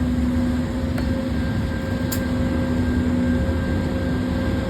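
Diesel freight locomotive's engine running steadily: a low rumble with a constant hum.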